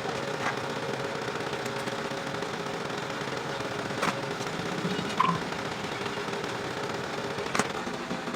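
A small electric motor running with a steady hum and a faint constant tone, with a few sharp clicks over it.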